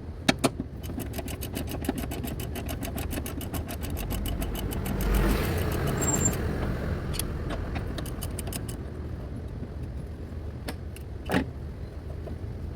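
Ratchet with a 12 mm deep socket and extension bar clicking fast and evenly, about ten clicks a second for several seconds, as a mounting bolt is run out. Later come a few scattered clicks and one louder knock.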